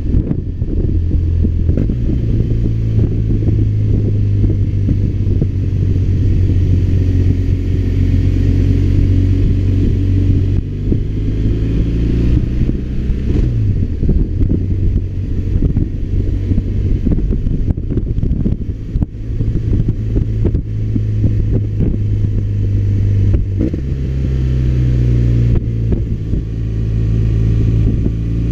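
BMW R1200RT boxer-twin engine running under way, a steady engine note. Its pitch drops about halfway through and changes again about two-thirds of the way in, as revs change on the descent.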